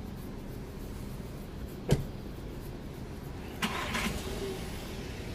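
Car engine running close by, a steady low rumble, with one sharp knock about two seconds in and a brief louder rush near four seconds.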